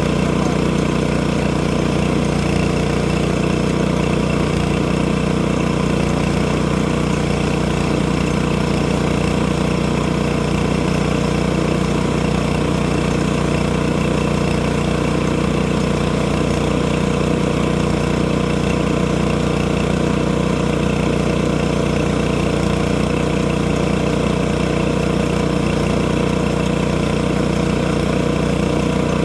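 Sawmill engine running steadily at a constant speed, with no change in pitch or level.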